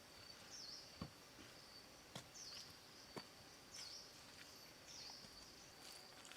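Faint jungle ambience: a steady high insect drone, with a short dipping call repeated about every second and a half and a few soft knocks.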